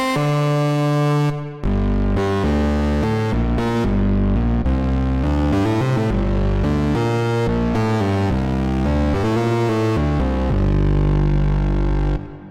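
Waldorf Pulse 2 monophonic analog synthesizer playing presets: a sustained phrase stops about a second and a half in, then a new patch plays a quick line of deep, changing bass notes that fades away near the end.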